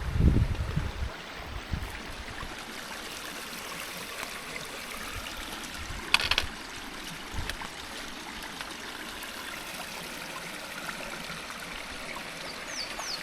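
Stream water running and trickling steadily. A sharp click comes about six seconds in, and a bird gives a few quick falling chirps near the end.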